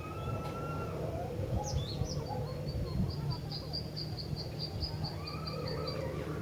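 Female cinereous tit (gelatik batu) calling: a quick run of high, evenly spaced notes, about five a second, starting about two seconds in and stopping near the end. Fainter drawn-out whistles come before it and near the end, over a steady low background rumble.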